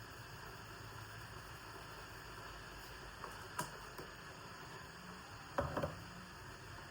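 Kitchen items being handled over a faint steady hiss: a single sharp click about halfway through, then a quick run of three or four knocks near the end.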